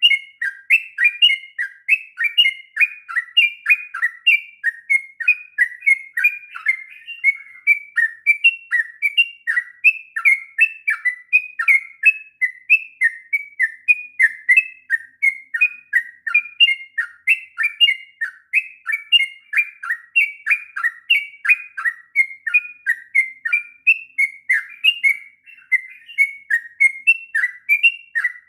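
Yellow-vented bulbul singing a long, unbroken run of quick, bubbly chirping notes, about three a second.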